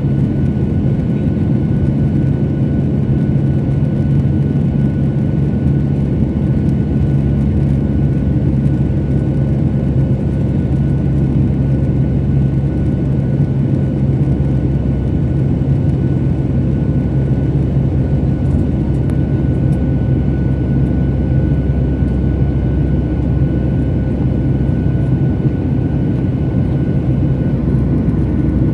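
Steady drone of an airliner's jet engines and rushing air heard from inside the passenger cabin, a low rumble with a few constant humming tones over it.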